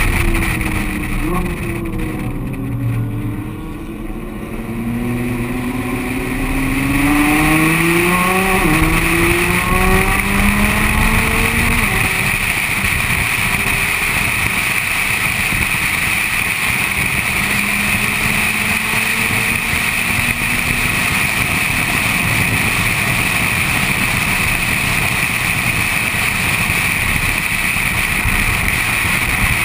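Nissan GT-R's twin-turbo V6 accelerating hard through the gears, its pitch climbing and dropping back at each upshift over the first twelve seconds or so. After that the engine note sinks under a steady rush of wind and road noise on the outside-mounted camera microphone.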